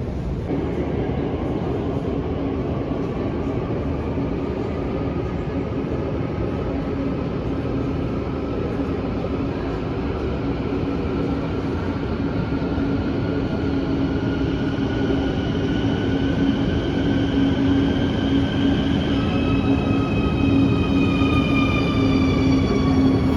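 Quito Metro train running with a steady rumble and an electric motor whine that rises slowly in pitch. Over the last few seconds several whines fall in pitch as the train slows.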